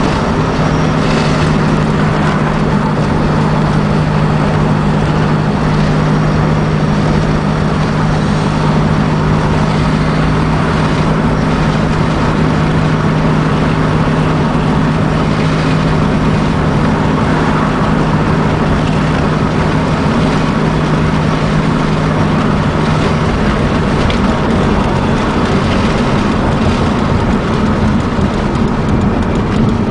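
Supercharged 2.5-litre four-cylinder engine of a 2004 Nissan Sentra SE-R Spec V, heard through its Nismo exhaust while the car drives. The engine holds a steady drone, which fades after about twenty seconds as the engine speed changes.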